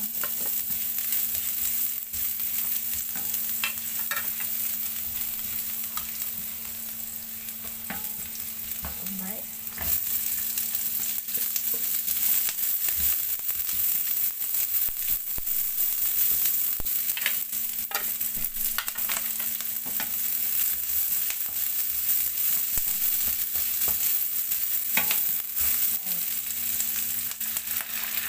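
Minced garlic and diced onion sizzling in hot oil in a nonstick frying pan, stirred with a wooden spatula. There is a steady frying hiss and scattered light clicks of the spatula on the pan.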